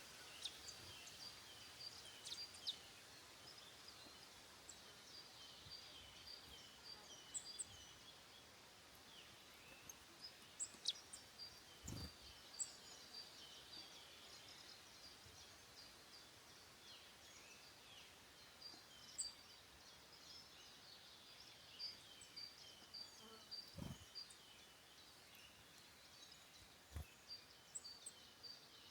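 Faint woodland birdsong: small birds singing phrases of short, high repeated notes, with scattered single chirps. Three soft knocks stand out, one about halfway and two near the end.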